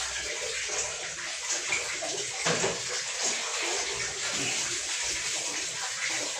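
Water running and splashing steadily, as from an open tap, with a single knock about two and a half seconds in.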